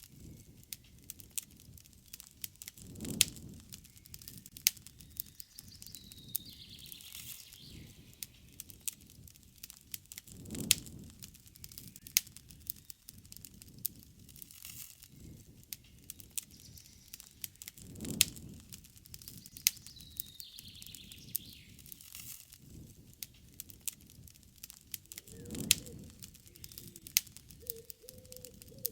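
Wood campfire crackling, with frequent sharp pops and a low rushing swell about every seven seconds. Birds call faintly in the background twice.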